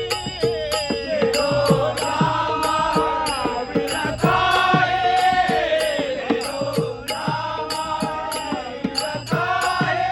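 Marathi devotional bhajan: a voice singing long, bending held notes over steady drum strokes and regular strikes of ringing hand cymbals.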